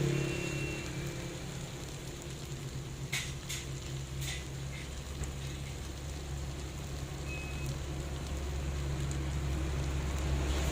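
Chicken filling sizzling as it is stir-fried in a pan to dry it out, over a steady low hum, with a few sharp clicks of a utensil on the pan about three to four seconds in.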